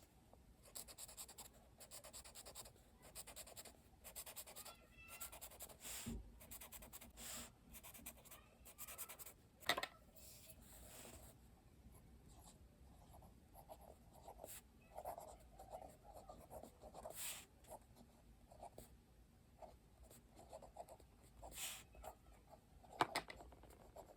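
Faint pen strokes scratching on journal paper in short, irregular bursts, with a sharper tap about ten seconds in and another near the end.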